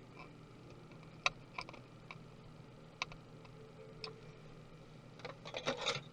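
Light clicks and taps of tools and small parts on a laptop being taken apart: single clicks every second or so, then a quick flurry of clicks and rattling near the end.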